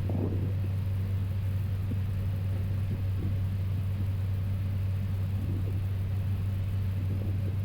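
Steady low hum and rumble of an Airbus A320 cockpit while taxiing with the engines at idle.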